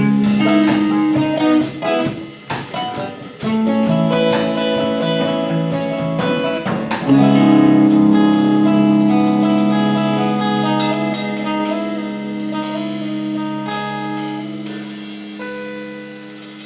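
Guitar played through a Boss GT-100 multi-effects processor into two amps in stereo: picked notes and short chords, then a chord struck about seven seconds in and left ringing, slowly fading away.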